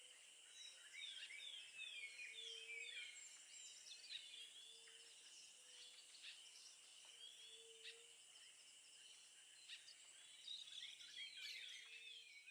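Faint chorus of several birds chirping and twittering over a steady high hiss, with short low notes every second or two.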